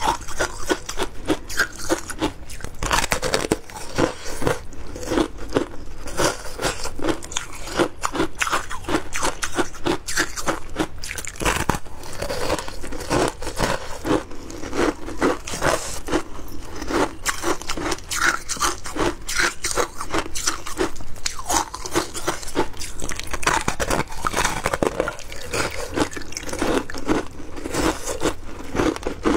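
Close-up crunching and chewing of frozen passion fruit ice, a dense run of rapid crisp bites and crunches that goes on without a break.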